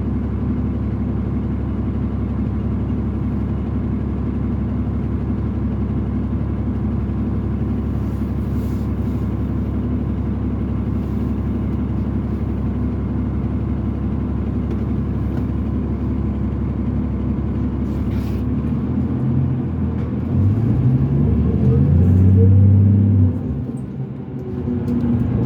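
Cummins ISL diesel engine of a 2005 New Flyer D40LF transit bus idling steadily. About nineteen seconds in, it revs up with rising pitch and gets louder as the bus pulls away. Near the end the pitch and level drop sharply, then start climbing again.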